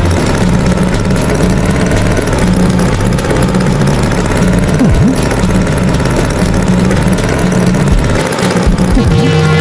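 Animated tractor's engine running with an uneven, pulsing chug.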